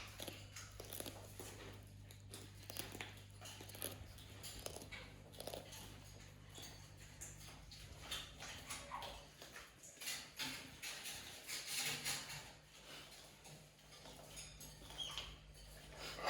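A parrot biting and crunching raw carrot: irregular small crunches and clicks, busiest a little past the middle.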